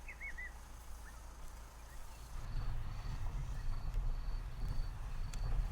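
A few short bird chirps near the start, then a low vehicle engine rumble comes in about halfway and carries on.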